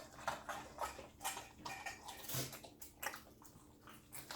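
Crispy dehydrated okra snacks being crunched and chewed, in a run of irregular short crunches.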